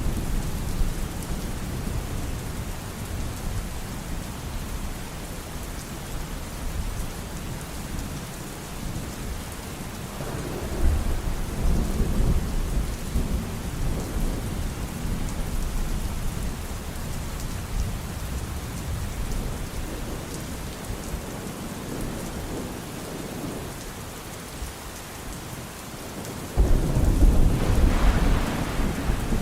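Steady rain with rolling thunder: a rumble swells about ten seconds in and fades, and a louder clap of thunder breaks near the end.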